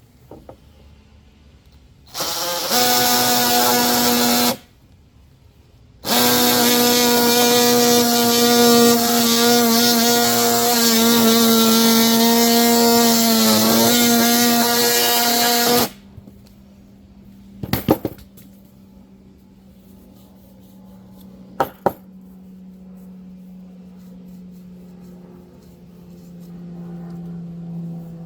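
Electric power saw cutting a piece of 1 1/4-inch PVC pipe, run twice: a short burst of about two seconds, then a long run of about ten seconds whose pitch dips briefly near the end. A few clicks and a faint steady hum follow.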